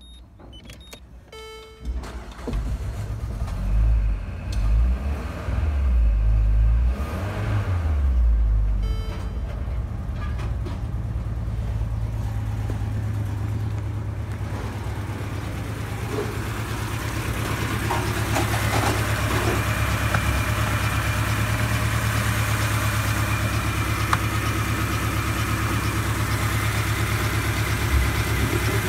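A few short electronic beeps, then the Peugeot 807's 2.0-litre EW10J4 petrol four-cylinder starts about two seconds in and runs unevenly at first. It then settles into a steady idle that grows louder as it is heard from the open engine bay.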